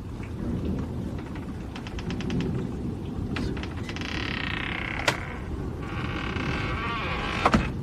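Rumbling thunder in a thunderstorm, with the steady noise of rain. Partway through, a hiss swells and fades, and there are a couple of sharp clicks near the end.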